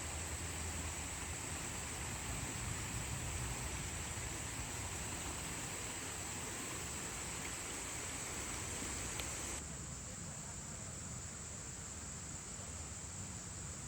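Steady high-pitched insect buzzing over a faint outdoor background hiss. About nine and a half seconds in, the buzzing stops abruptly and only the fainter hiss remains.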